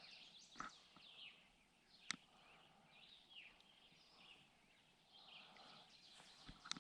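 Faint birdsong: several birds calling in short rising and falling phrases, with a sharp knock about two seconds in.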